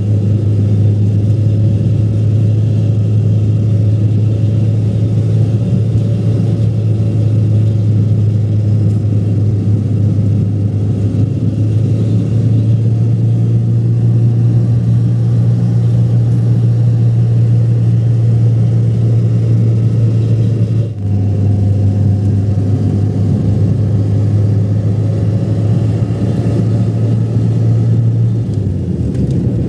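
Motor vehicle engine running steadily with a low, even hum. It briefly dips about two-thirds of the way through and drops in pitch near the end.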